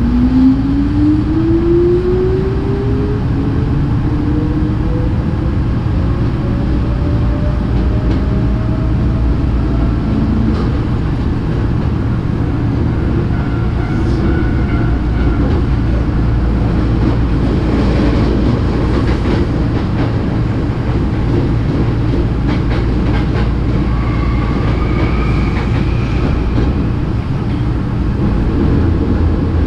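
Hankyu electric commuter train pulling away, its traction motor whine rising steadily in pitch over about the first ten seconds, then running on with a steady rumble and the clickety-clack of wheels over rail joints.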